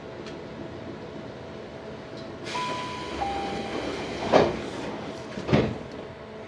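Tobu 634-series train's passenger doors at a station stop: a two-note falling chime with a hiss, then the sliding doors moving with two loud thuds, over the steady hum of the standing train.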